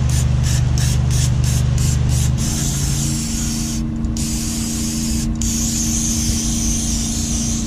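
Aerosol can of brake cleaner spraying: a few short quick spurts, then long hissing sprays broken by two brief stops. A steady low mechanical hum runs underneath and shifts pitch a couple of seconds in.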